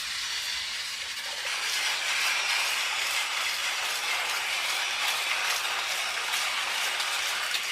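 Battery-powered Plarail Thomas toy train running along plastic track, its small motor and gearbox whirring steadily with light clicks, growing louder about a second and a half in.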